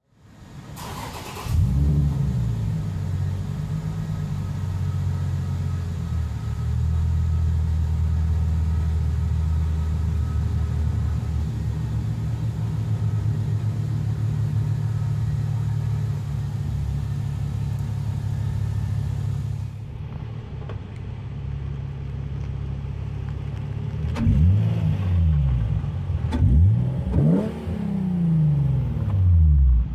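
Nissan 350Z's 3.5-litre V6 engine starting up, its revs dropping to a steady idle. Near the end it is blipped several times in quick succession, each rev rising and falling.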